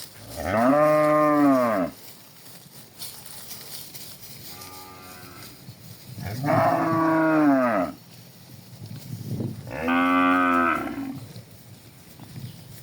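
Domestic cattle mooing: three loud moos of about a second and a half each, every one rising and then falling in pitch, with a fainter moo between the first two.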